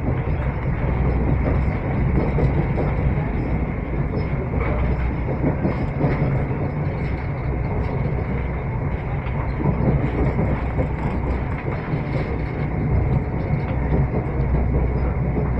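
Passenger train running at speed, heard from inside the carriage: a steady, deep running noise of wheels on rail and the rattling coach.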